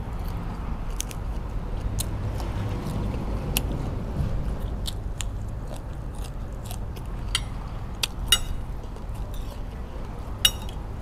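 Close-miked chewing and biting of raw yardlong bean, with scattered crisp crunches. A spoon and fork clink on the plate near the end.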